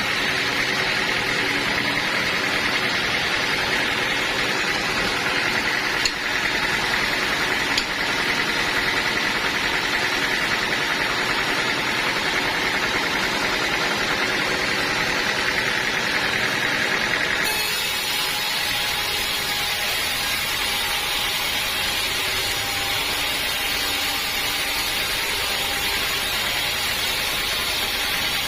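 Sawmill machinery running steadily, a continuous engine-like drone with a higher cutting whine that changes abruptly about two-thirds of the way through.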